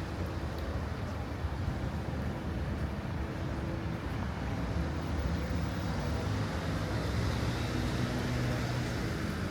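City street traffic: a motor vehicle running close by, a steady low hum over road noise.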